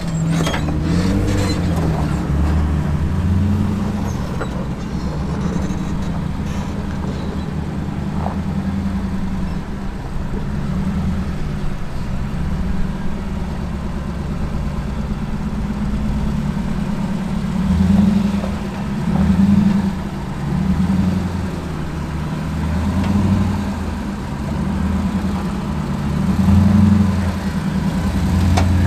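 Jeep Wrangler engine running at low speed on a rock trail, revving up briefly several times in the last third.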